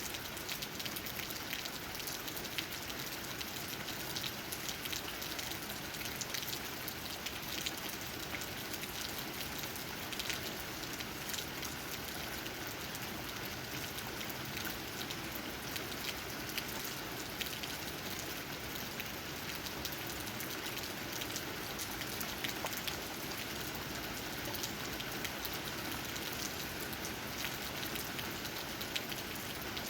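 Steady rain with many small drops pattering on tree leaves.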